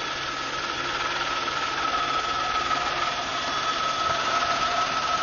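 Steady engine noise with a constant high-pitched whine over it.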